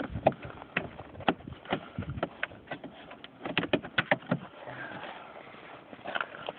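A run of irregular clicks and knocks, thickest about four seconds in.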